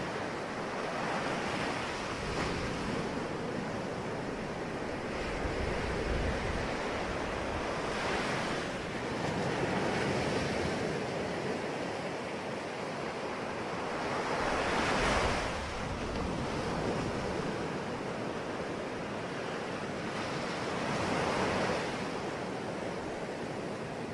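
Sea waves breaking and washing on a shore, a continuous surf noise that swells with each wave, about every five to seven seconds, the largest about fifteen seconds in.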